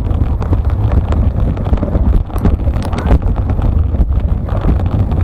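Wind buffeting the microphone with a heavy low rumble, over a rapid, irregular patter of light clicks.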